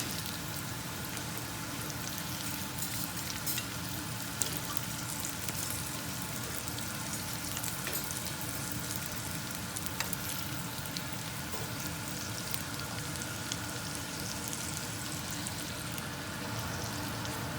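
Thin-sliced chicken frying in olive oil in a pan, a steady sizzle with a few sharp clicks and pops.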